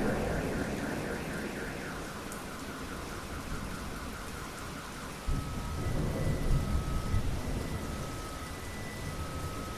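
Steady rain with thunder: a rumble dies away over the first seconds, and another low thunder roll comes in about five seconds in. Faint repeating high tones sound behind it.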